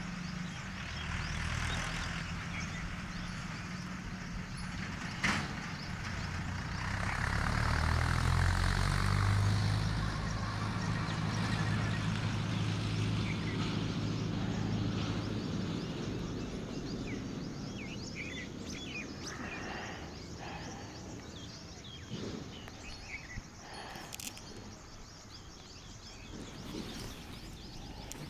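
Outdoor background noise: a steady low rumble like distant traffic, with scattered short bird chirps, mostly in the second half. A single sharp click comes about five seconds in.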